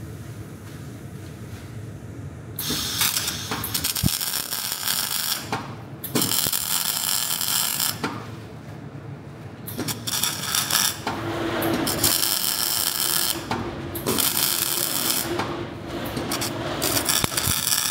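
Workshop power tool running in repeated bursts of a few seconds each, with short pauses between them; the first burst starts about two and a half seconds in.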